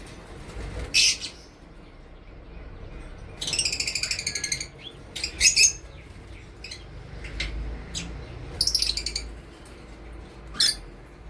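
Pet parrots giving harsh, raspy squawks. There is a run of short calls, with one longer call made of rapid pulses a few seconds in.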